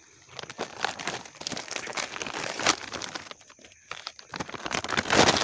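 Plastic sack crinkling and rustling as it is handled, with a run of irregular crackles, loudest near the end.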